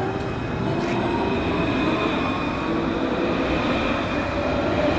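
Loud, steady rolling noise carrying several thin, high squealing tones that drift slowly upward in pitch.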